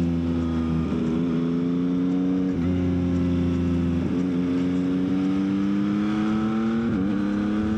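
Yamaha XSR900 motorcycle's inline three-cylinder engine running under way, its note climbing slowly with a few short dips in pitch along the way.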